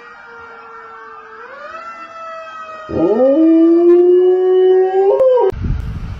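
A dog howling. A quieter held howl comes first, then a much louder long howl starts about three seconds in, swoops up, holds steady and rises at its end. A rough burst of noise follows near the end.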